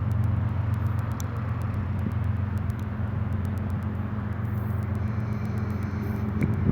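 Diesel freight locomotives running with a steady low engine drone, overlaid with a rushing noise of the passing train.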